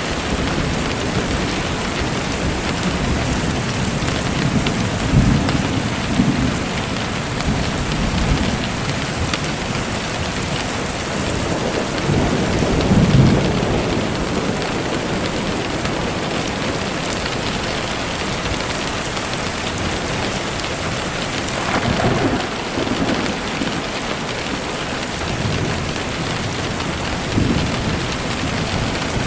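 Steady rain falling, an even hiss of drops, with low rumbles swelling up and fading several times.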